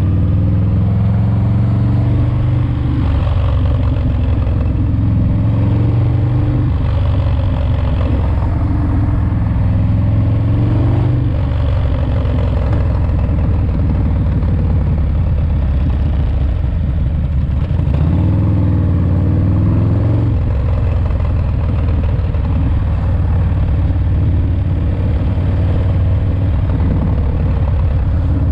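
S&S 107ci V-twin engine of a 1985 Harley-Davidson FXRT running on the road during break-in, its pitch rising and falling a few times with throttle.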